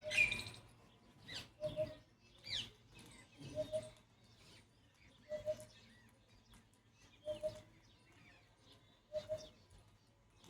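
A pet parrot calling: short chirps with quick rising and falling whistles, repeated about every two seconds.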